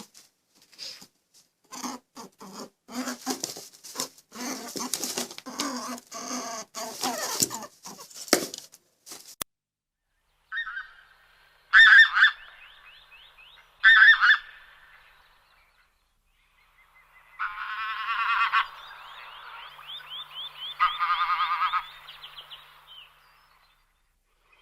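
Geese honking: a dense stretch of overlapping flock calls for the first several seconds, then two loud single honks near the middle and longer runs of honking later on.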